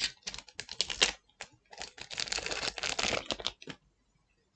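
Trading card booster packs and cards being handled: a run of quick clicks and rustles, then a denser stretch of crinkling wrapper, stopping about a second before the end.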